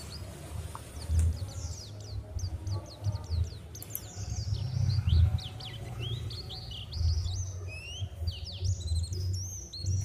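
Small birds chirping, many quick notes that sweep up and down in pitch and come thicker in the second half, over a low irregular rumble.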